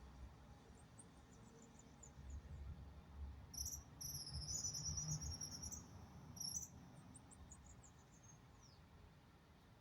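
A small bird's high, rapid trill lasting about three seconds in the middle, with scattered short high chirps before and after and a quick falling note near the end, over a faint low rumble.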